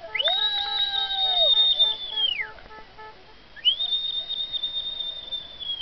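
Long, high whistled notes. One rises in, holds steady for about two seconds and falls away, with a lower whistle under its first half. A second high whistle starts about halfway through and is still held near the end.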